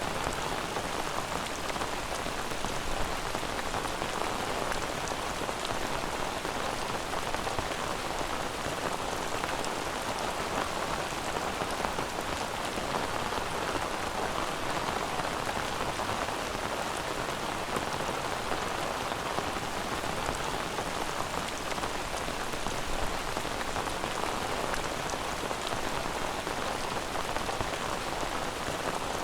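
Steady rain falling, an even hiss that does not change, without thunder.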